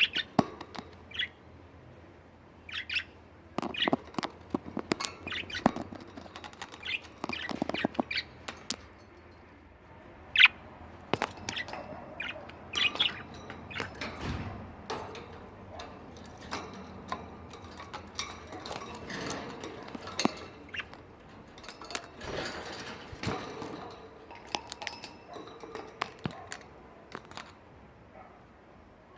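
Budgerigars chirping and chattering in short, scattered calls that die down near the end.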